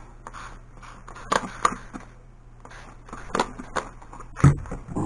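Handling noises on a workbench: a handful of sharp clicks and knocks, then a louder low thump about four and a half seconds in.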